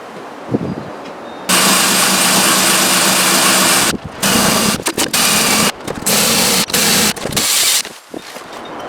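A power tool with a loud hissing whir and a steady hum, switched on suddenly and run for about two seconds, then worked in a string of short on-off bursts.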